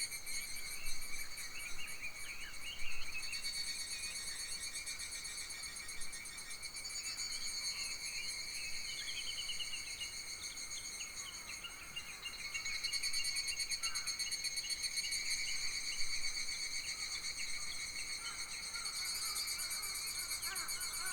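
Summer forest insects trilling continuously in high, rapidly pulsing tones, several of them overlapping as they swell and fade in turn. Short bird chirps come and go in the background, including a quick falling run of notes about nine seconds in.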